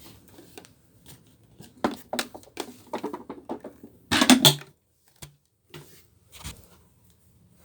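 Clicks, rattles and rustling as a vacuum cleaner's dust cup is opened and its debris emptied out, with a louder clatter about four seconds in and a few light knocks after it.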